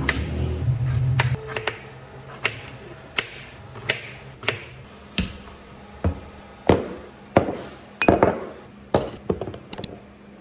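A series of sharp knocks and clinks on hard objects, roughly one every half to three-quarters of a second, loudest in the second half.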